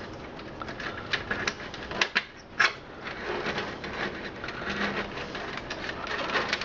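Cables and plastic parts being handled and pulled inside a desktop computer case: a steady patter of small clicks, rustling and scraping, with two sharp snaps about two seconds in and again half a second later.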